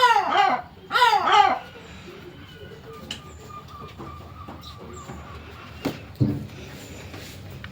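Birds calling loudly at close range: two quick bursts of sharp, falling calls in the first second and a half. A couple of knocks follow a little before and after six seconds in.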